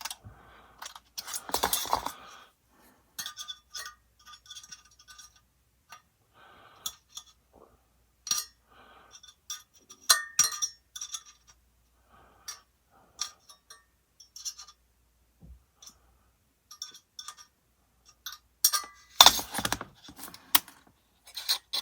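Small metal clinks and clicks as thin photo-etched metal parts are bent up with a photo-etch bender and handled on a tabletop, with a louder burst of handling noise near the end.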